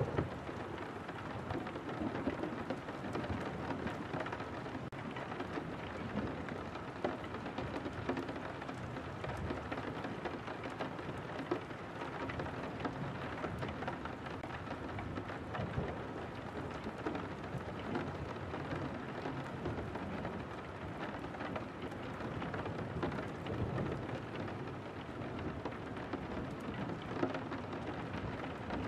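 Steady rain falling on a window pane, with a dense spray of separate drops ticking against the glass.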